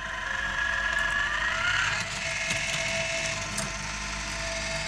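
Sawmill band-blade sharpener running on a 12-volt battery: a steady mechanical hum with a whine that rises in pitch about a second in and a few faint clicks.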